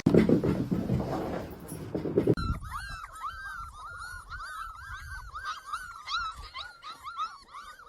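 A loud rough noise for about two seconds, then a dog giving a fast run of short, high-pitched whining yelps, about four a second.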